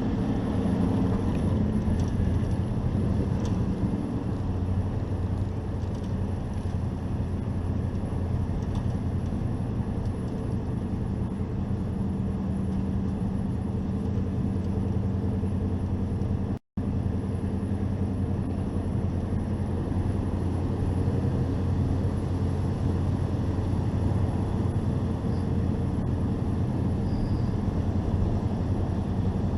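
Hobby-class race truck's engine running steadily under load, heard on board, with no clear revving up or down. The sound cuts out completely for a split second about 17 seconds in.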